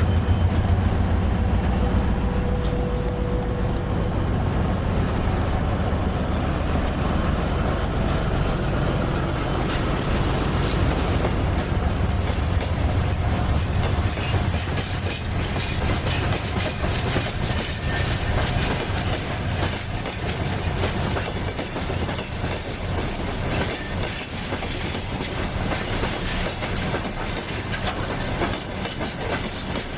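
A train running on rails. A heavy low drone at first eases off, and wheel clatter over the rail joints grows dense and rapid from about ten seconds in.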